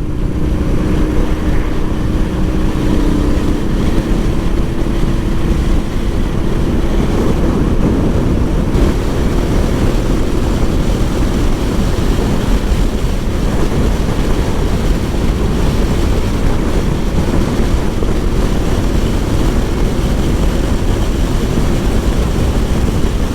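Motorcycle riding at steady road speed: wind rushing over the microphone, with the engine running steadily underneath.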